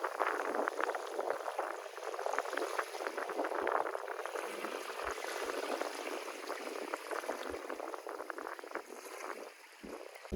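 Shallow seawater washing and fizzing at the shoreline, a steady crackle of many tiny splashes and bursting bubbles, fading a little near the end.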